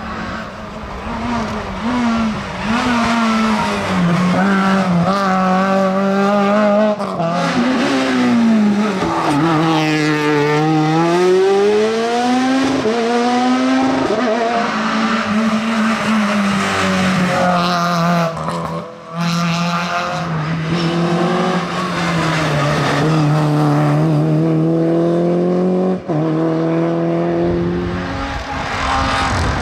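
Rally car engine revving hard and continuously, its pitch climbing through the gears and dropping on lifts and braking, with a long fall and climb back up about ten seconds in.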